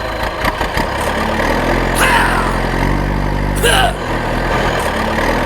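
Small engine of a miniature tractor running steadily at idle. Two short high chirps sound over it, about two seconds in and again near the end.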